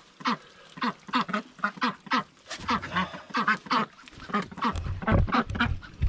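Several domestic ducks quacking repeatedly, a rapid run of short calls about three or four a second, with a few low thuds near the end.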